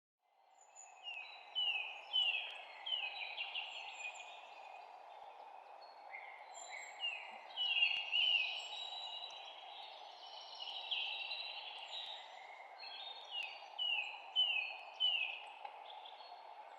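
Several songbirds chirping and singing in quick runs of short, downward-sliding notes over a steady background rush. The sound fades in from silence at the start.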